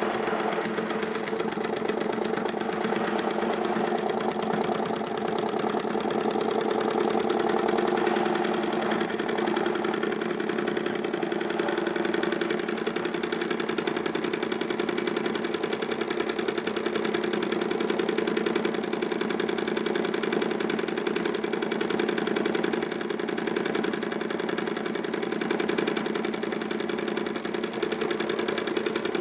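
Ernst Plank Cosmo toy vertical steam engine running steadily under steam, its rapid, even mechanical beat unbroken throughout.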